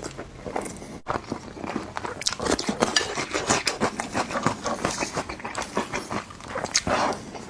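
Close-miked eating: a person chewing and smacking on food, a dense, irregular run of wet clicks and crunches, with occasional clinks of cutlery.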